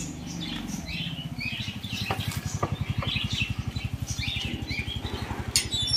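Small birds chirping repeatedly over a low, fast-pulsing rumble, with a few sharp clicks about two to three seconds in.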